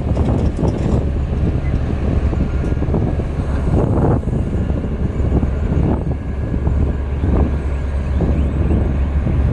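Heavy diesel earthmoving machinery running steadily, a deep engine drone with irregular swells in level on top.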